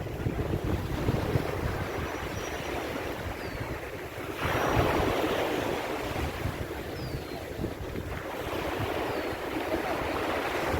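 Ocean waves breaking and washing on a beach, with a louder surge of surf about four seconds in and another swell near the end. Wind buffets the microphone.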